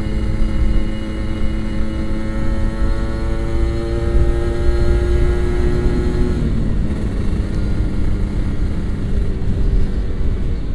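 Kawasaki Ninja RR 150's two-stroke single-cylinder engine on a racing exhaust, under way, rising slowly in revs for about six seconds. Then the throttle closes and the pitch falls away, over heavy wind rumble on the microphone.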